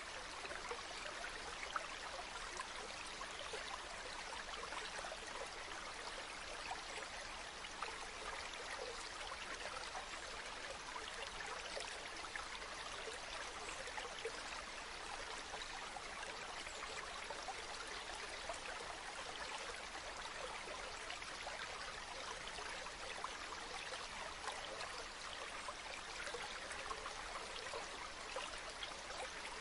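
Running water: a steady rush of a stream or small waterfall, with fine splashing and trickling throughout.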